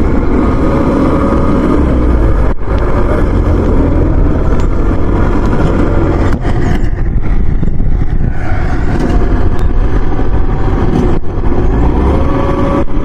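Heavy farm machinery engine running loud and steady under load, broken by a few brief dropouts.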